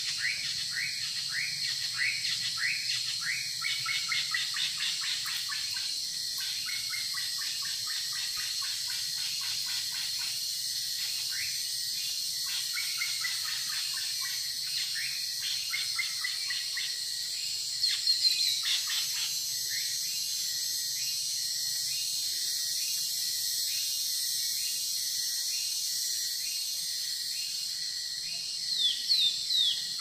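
Wild forest birds calling: fast series of short, downward-slurred whistled notes through the first half, then louder falling calls about two-thirds of the way in and again at the end. A steady high insect drone runs underneath.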